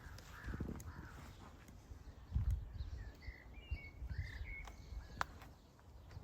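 Wild birds calling: two harsh, caw-like calls near the start, then a quick series of short chirps in the middle, over irregular low thuds of footsteps.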